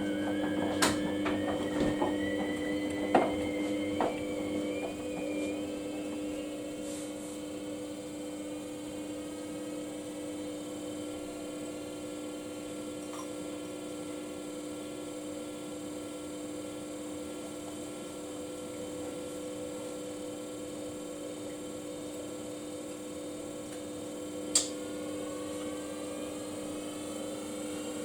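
Samsung washing machine running with a steady motor hum and a whine that rises in pitch over the first six seconds as the drum speeds up, typical of a spin. There are a few clicks in the first four seconds, and one sharp click near the end, after which the whine starts rising again.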